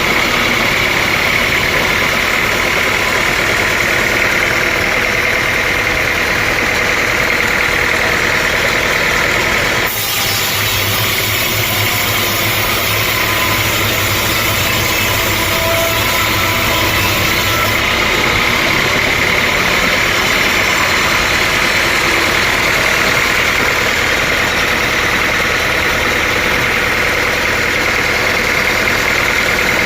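Sawmill machinery running steadily with a continuous mechanical drone and a high whine, with a brief dip in level about ten seconds in.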